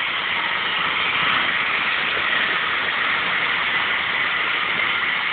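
Train running at the station platform: a steady rushing noise.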